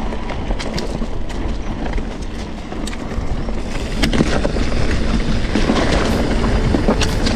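Ride noise from a moving bike: wind rushing over the microphone with a low rumble and scattered sharp rattles and clicks, getting louder about four seconds in.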